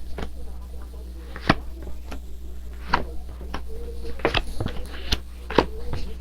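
Tarot cards being handled and laid down on a table: a handful of sharp clicks and taps at uneven intervals over a steady low hum.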